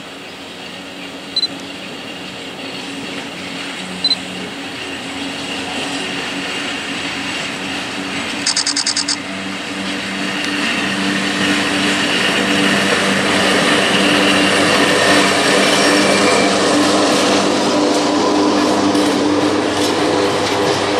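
PKP Cargo ET22 electric freight locomotive approaching and passing, its steady hum growing louder, then the wheels of its open coal wagons clattering over the rail joints near the end. Two short high beeps early on and a quick string of high chirps about eight and a half seconds in.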